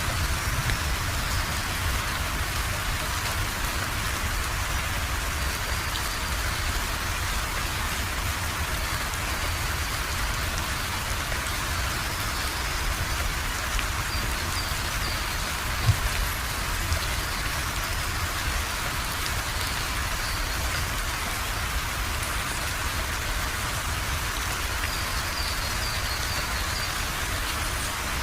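Steady rain falling, an even hiss of drops over a low rumble, with one sharp tap about sixteen seconds in.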